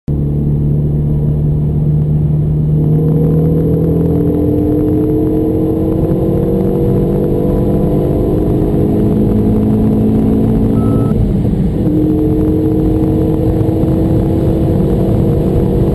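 Renault Mégane 3 RS Cup's turbocharged 2.0-litre four-cylinder, remapped to about 310 hp with a stainless exhaust silencer, accelerating hard under full load, heard inside the cabin. The engine note holds steady for a couple of seconds, then climbs slowly, dips at an upshift about eleven seconds in, and climbs again.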